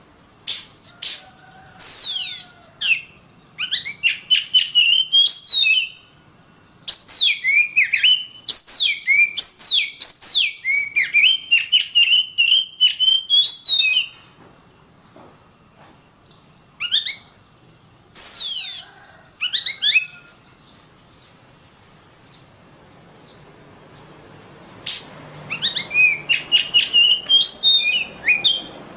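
Oriental magpie-robin (kacer) singing: phrases of rapid, high whistled and chattering notes, many sweeping downward. The song breaks off for a few seconds after the middle and starts again near the end.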